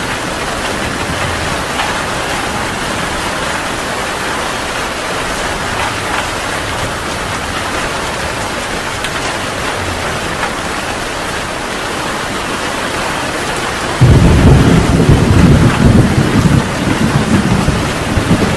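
Heavy rain falling steadily. About fourteen seconds in, a loud, deep roll of thunder breaks in suddenly and keeps rumbling in surges over the rain.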